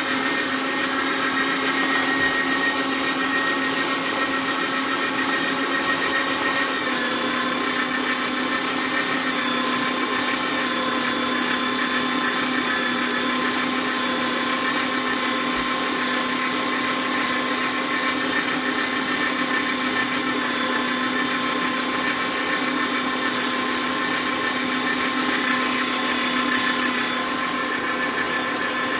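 Kenwood electric meat grinder's motor running steadily while grinding meat, a constant whirring hum. Its pitch drops slightly about seven seconds in and holds there.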